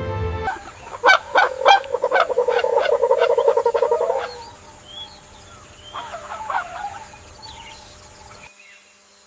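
A bird calling: a rapid run of harsh, honking notes for about three and a half seconds, then softer scattered calls that cut off suddenly near the end.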